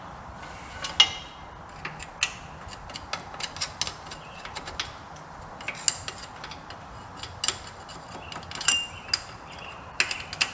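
Irregular sharp metallic clicks and clinks of hand tools and metal parts being handled during mower repair work, the loudest about a second in.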